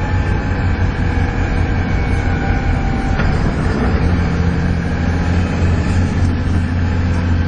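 Volvo B7TL double-decker bus's diesel engine pulling hard, heard on board, with a steady low drone and the high 'hoovering' whine the model is known for. The engine note strengthens and deepens about four seconds in.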